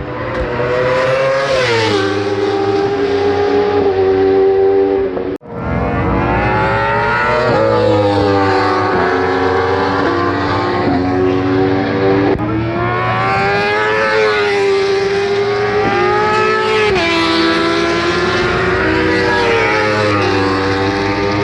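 Factory superbike inline-four racing engine through an open race exhaust, its note rising and falling in steps as the revs change. The sound breaks off sharply for an instant about five seconds in, then carries on.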